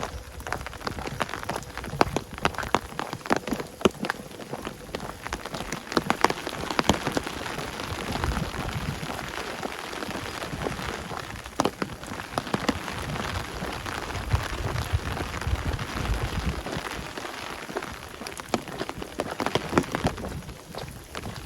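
Steady rain falling through forest, a constant hiss with many close raindrops landing as sharp irregular ticks.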